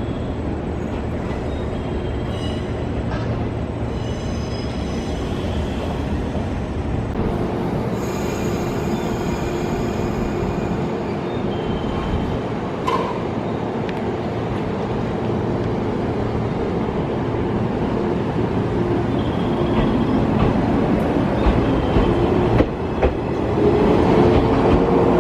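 A train running at a station, with a steady rumble and hum and a few rail clicks. Near the end a rising whine comes in as it picks up speed.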